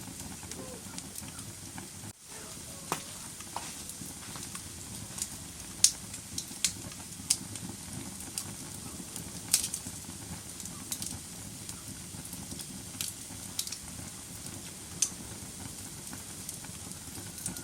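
Wood fire in a fireplace crackling: a steady low hiss with sharp pops scattered through, the loudest about six and nine and a half seconds in, and a momentary dip just after two seconds.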